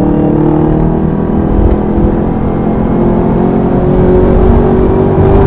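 Supercharged V8 muscle car engine running hard under load, a loud steady drone whose pitch climbs slowly through the second half.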